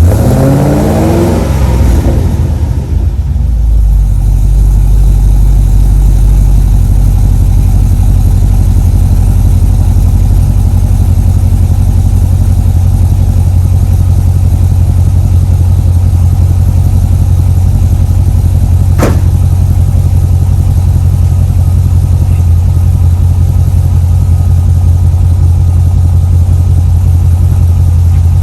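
V8 car engine, just started after several failed attempts, revving up briefly and then settling into a steady, loud idle. A single sharp click sounds about 19 seconds in.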